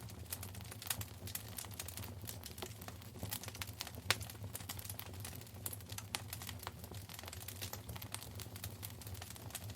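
Wood fire burning in a fireplace: irregular crackling and snapping pops over a low steady rumble of the flames, with one louder pop about four seconds in.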